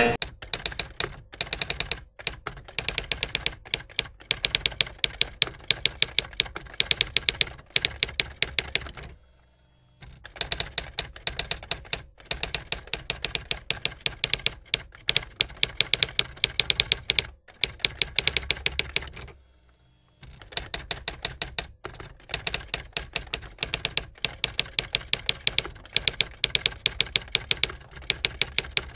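Rapid typing on a keyboard: quick runs of key clicks with brief pauses, stopping fully twice, about a third and two thirds of the way through.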